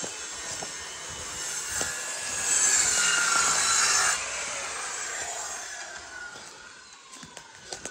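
Power saw cutting through wood, with the motor's whine rising and falling. The cut is loudest for about a second and a half in the middle, then the saw winds down and fades.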